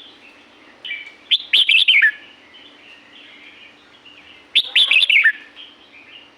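Red-whiskered bulbul singing: two quick, loud phrases of chirpy notes, each ending in a falling note, about a second and a half apart from the softer warbling between them.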